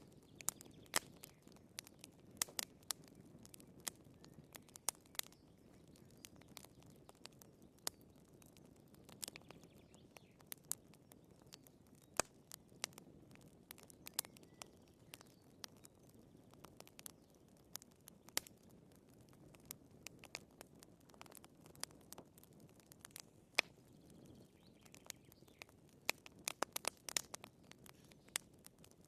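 Wood fire crackling in a fireplace: irregular sharp pops and snaps of burning firewood, several a second, over a soft low rush of flame.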